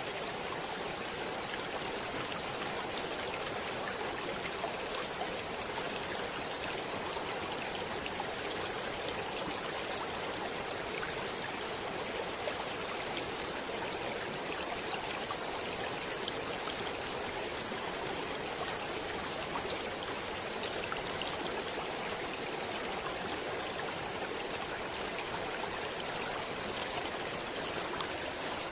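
Stream water running and splashing over rocks, a steady rushing with small bright splashes and trickles.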